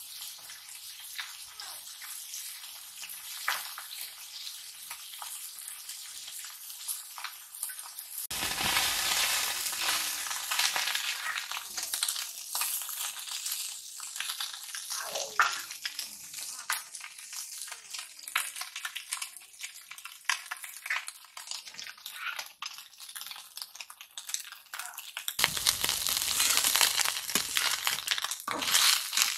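Small fish sizzling in hot oil in an iron kadai, a steady frying hiss, with a metal spatula stirring and scraping through them. The stirring grows louder for several seconds about a third of the way in and again near the end.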